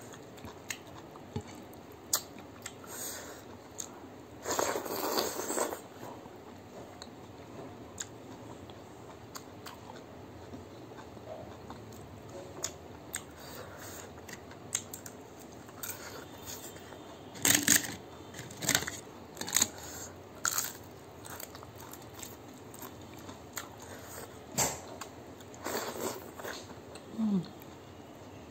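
Close-up eating sounds: chewing and mouth smacking on a mouthful of rice and saag ko jhol, in short irregular bursts, with a longer wet burst about five seconds in. Fingers squelch as they mix rice into the soupy greens on a plate.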